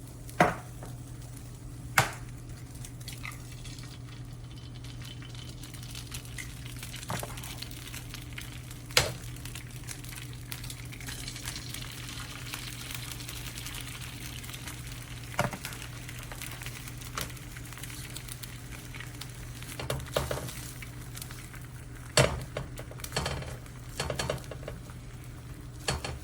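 Eggs frying on a HexClad hybrid nonstick griddle, with a faint sizzle over a steady low hum. Sharp clinks of a spatula against the pan come now and then, and more often near the end.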